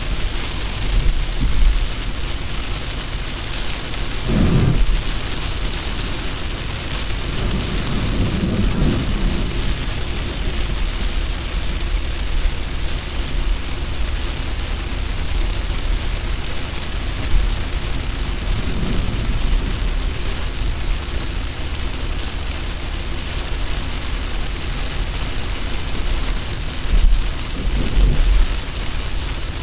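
Car driving at about 80 km/h in rain: a steady low rumble of road and wind noise with rain striking the car, swelling briefly louder a few times. The wipers are not running.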